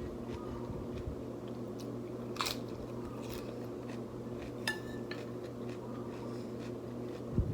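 Close-up eating sounds: a person biting and chewing food, with two short sharp clicks, the second ringing briefly, over a steady low hum.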